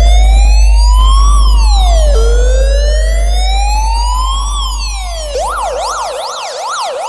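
Electronic siren effect in a sound-check DJ track over a long deep bass boom that fades out. The siren slowly rises and falls twice, then about five seconds in switches to a fast yelp of about three sweeps a second.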